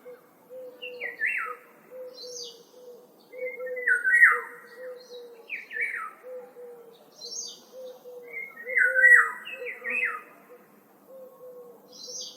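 Woodland birds calling: loud, short, falling calls repeated every second or two, over a steady run of low, even notes.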